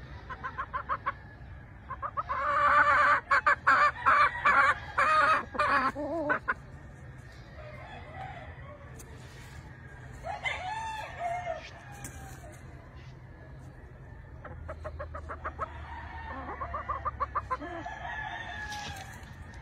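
Sweater gamefowl roosters crowing and clucking. A loud run of calls comes about two seconds in, another crow around ten seconds, and a quick string of clucks near the end.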